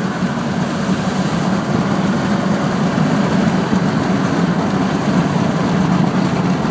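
Duramax 6.6-litre V8 turbo diesel pulling at full throttle, heard from inside the cab, a steady deep drone that grows slightly louder as the truck accelerates, mixed with road noise.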